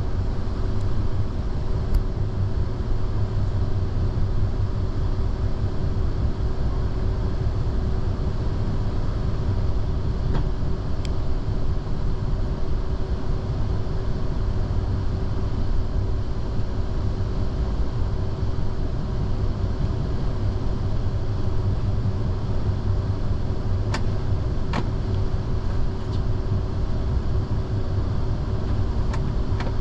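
Train running at a steady speed: a continuous low rumble with a steady hum over it, broken by a few sharp clicks, two of them close together a little past the two-thirds mark.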